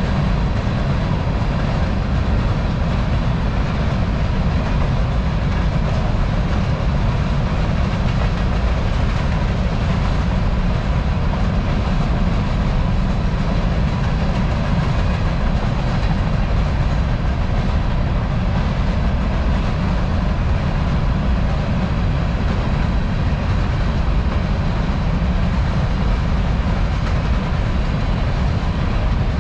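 Long BNSF freight train's covered hopper cars rolling past at a steady pace: continuous, even noise of steel wheels on the rails, strongest in the low end.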